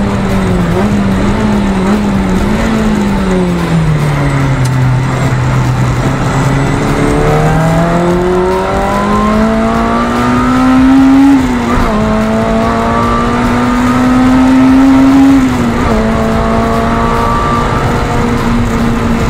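Lotus Elise's four-cylinder engine heard from inside the cabin at speed. The revs fall away about three to five seconds in, then climb steadily through the gears, with quick upshifts about eleven and sixteen seconds in. The engine is loudest just before each shift.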